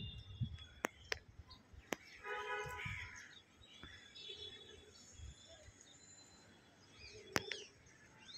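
Birds calling outdoors: a harsh call with several overtones about two seconds in, and short curving chirps near the end. A few sharp clicks and some low thumps sound in between.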